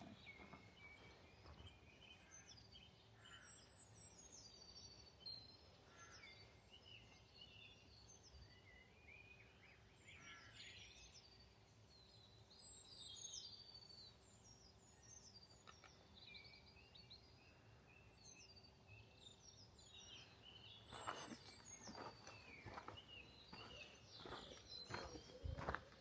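Faint birdsong: several small birds chirping and trilling. Footsteps start near the end.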